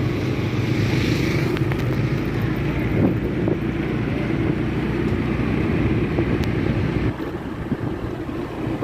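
A bus's diesel engine running close by, steady and loud, with wind buffeting the microphone.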